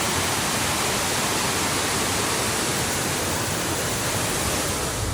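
Waterfall on a creek, falling water rushing steadily and loudly.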